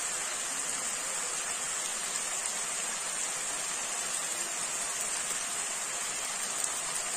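Onion-tomato masala frying in oil in a kadai, giving a steady, even sizzle.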